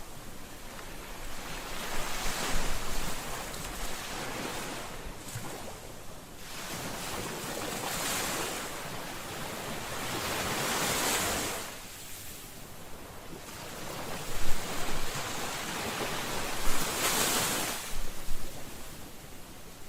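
Ocean waves breaking and washing up on a shore, the surf swelling and falling away in surges every few seconds.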